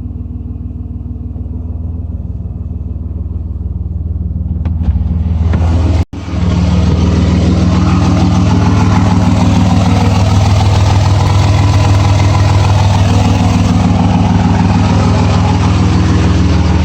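Cummins 5.9L inline-six turbodiesel running steadily soon after a cold start in freezing weather. About four seconds in it grows louder and fuller. It cuts out for an instant about six seconds in, then carries on louder.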